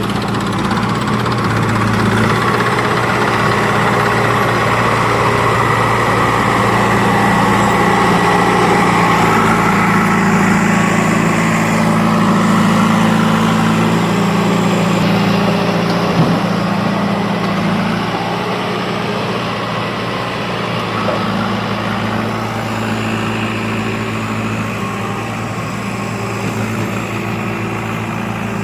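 Heavy vehicle's diesel engine running steadily with a constant low hum, easing off a little past the middle.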